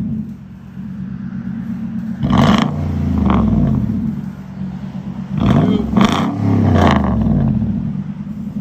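2011 Nissan Titan's 5.6-litre V8 through a straight-piped true dual exhaust, idling and then revved in about three quick blips, about two seconds in and twice more near the middle, each rising and dropping back to idle.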